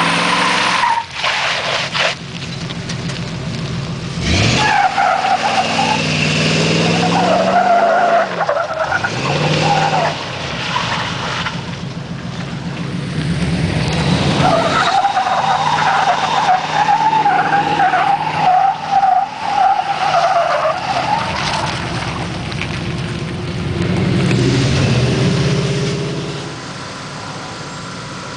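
Chevrolet Blazer 4x4 driven off-road, its engine revving up and down in several long surges, with a high wavering whine over the engine during the hardest pulls.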